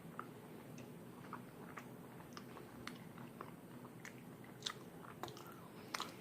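Close-up mouth sounds of chewing a spoonful of Blizzard ice cream with peanut butter cup pieces: soft, irregular clicks and smacks.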